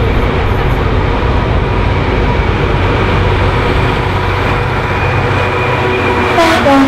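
Diesel train running past, a steady loud rumble with an engine hum, and a short falling-pitched sound near the end.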